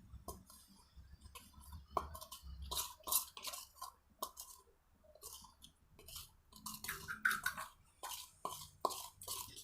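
Irregular small clicks, taps and scrapes from handling slime ingredients and utensils, such as a glue container and spoons.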